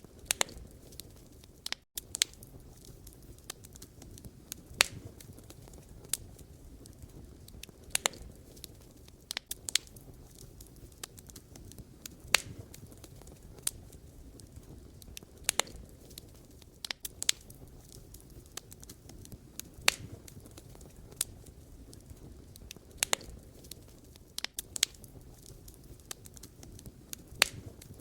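Wood campfire crackling: irregular sharp pops and snaps of burning firewood over a low, steady rumble of flames.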